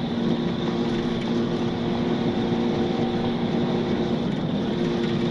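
Steady drone of a moving vehicle's engine and road noise, with a constant low hum that holds one pitch throughout.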